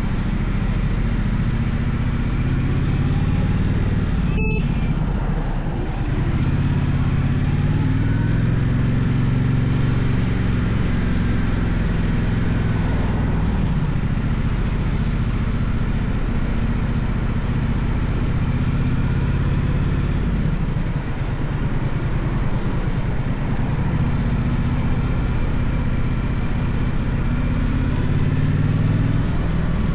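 Gaokin GK1200 motorcycle engine running under way, heard from onboard. The engine note is steady with brief dips about six seconds in and again around twenty-one seconds, and there is one short sharp click about four and a half seconds in.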